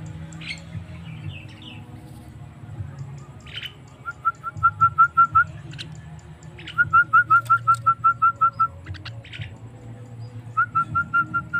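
Javan myna (jalak kebo) calling: three runs of quick repeated whistled notes, about seven a second, each run lasting one to two seconds, with a few sharper chirps between them, over a low steady hum.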